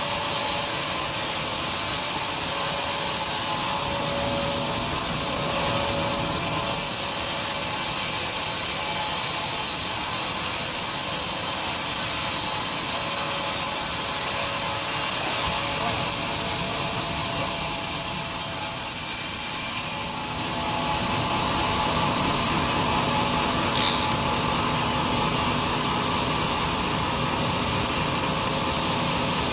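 Large sawmill bandsaw cutting lengthwise through a big log, a steady, loud, high sawing noise. About twenty seconds in the sound dips for a moment and then goes on duller, with less of the high edge.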